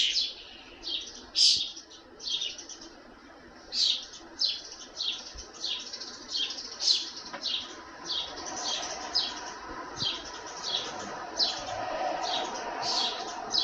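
Young songbirds giving repeated begging chirps, each a quick falling note, about two a second, as they wait for a parent to feed them.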